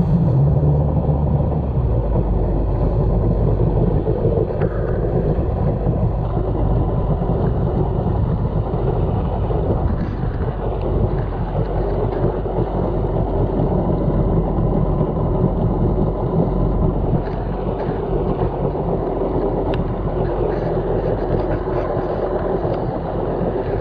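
1999 Sea-Doo XPL two-stroke personal watercraft under way: the engine's pitched note falls away in the first two seconds, then a steady, loud rushing of wind on the microphone and water noise carries on, with the engine low underneath.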